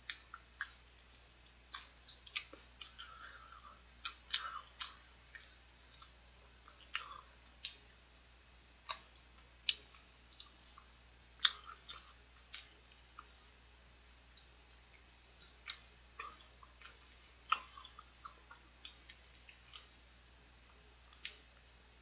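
Close-up eating of fried chicken: irregular crisp clicks and crackles of chewing and tearing the meat off the piece, a few each second, some much louder than others.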